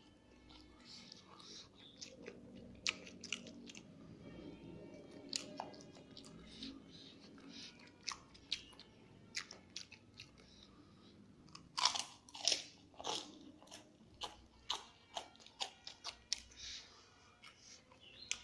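Close-up mouth sounds of a person eating smashed fried egg with rice: chewing, with many sharp wet smacks and clicks, growing louder and busier about two-thirds of the way through.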